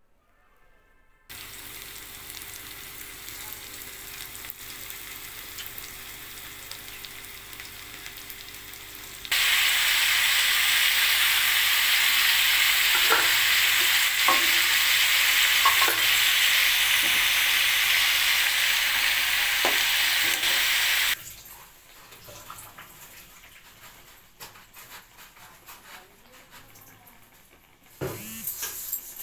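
Chicken pieces frying in hot oil in a pan: a steady sizzle that turns much louder about nine seconds in, with a few sharp pops, then drops back about twenty-one seconds in to a softer sizzle with scattered clicks.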